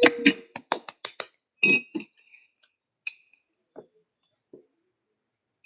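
Tableware clinking: a run of quick sharp clicks, then two ringing clinks about a second and a half apart, with a couple of faint knocks near the end.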